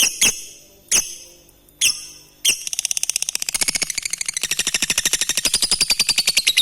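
Lovebird calling: a few sharp, high single calls, then about two and a half seconds in it breaks into a long, rapid, even chattering trill, the 'ngekek' song prized in lovebirds.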